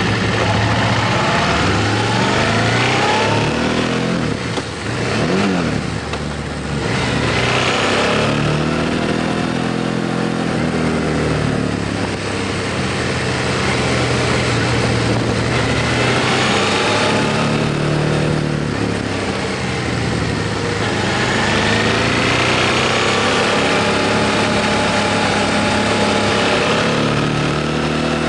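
Motorcycle engine running under way, its pitch rising and falling several times as the rider accelerates and shifts gears, with steady wind and road noise.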